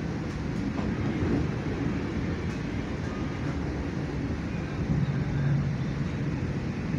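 Passenger train cabin noise while under way: a steady low rumble of the running train, with a low hum swelling briefly about five seconds in.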